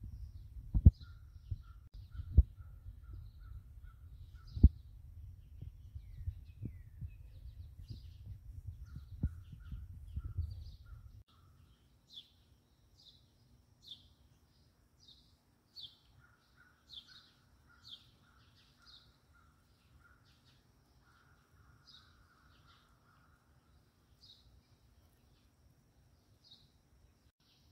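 Birds calling outside: short high notes repeated roughly once a second, over a quicker string of lower chirps. For about the first eleven seconds a low rumble on the microphone with several sharp thumps, the thumps being the loudest sounds, then it cuts off suddenly.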